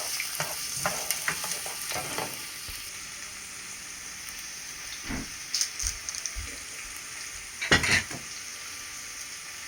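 Chopped onion sizzling in hot oil in a frying pan, a steady hiss, with a few sharp knocks from stirring, the loudest about eight seconds in.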